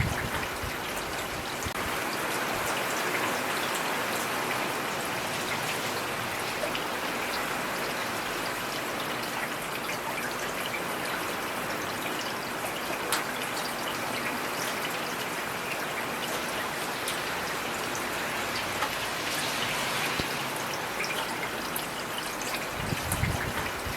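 Heavy rain falling steadily, a dense hiss dotted with sharp individual drop ticks, with a dull low thump near the end.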